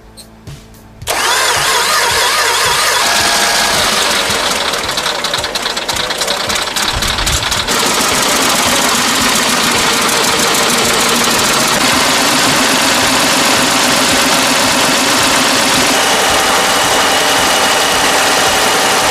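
T-150 tractor's diesel engine started on its starter in severe cold (about −25 °C). It comes in suddenly about a second in, runs unevenly with rapid irregular knocking for several seconds, then settles into steadier running.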